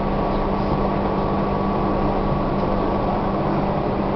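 Interior running noise of a Tobu 1800 series electric train under way: a steady rumble of wheels on rail with a steady hum running through it.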